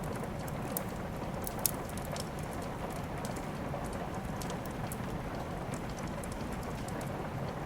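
Steady rain mixed with the scattered crackles and pops of a wood fire, one sharper pop about one and a half seconds in.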